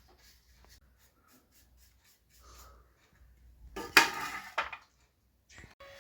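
Faint scattered ticks, then a brief loud clatter of hard objects being handled about four seconds in, followed by a smaller knock.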